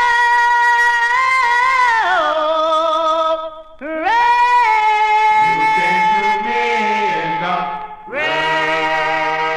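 Doo-wop vocal group singing a slow ballad's ending in close harmony: long held chords with a high lead voice on top, in three drawn-out phrases, a low bass voice joining in the second phrase.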